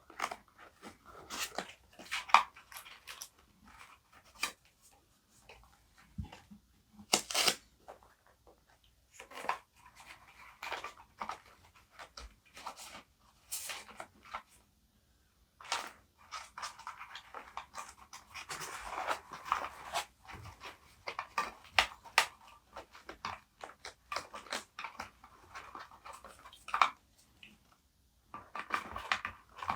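Close-up paper handling for journaling: irregular rustling, crinkling and light taps of paper and stickers, with a longer stretch of steady rustling about two-thirds of the way through.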